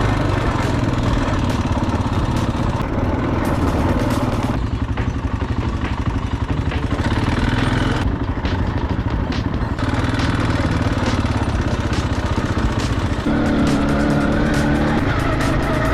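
Quad bike engine running under way over a dense rumble of wind and terrain noise, its note shifting several times as the throttle changes.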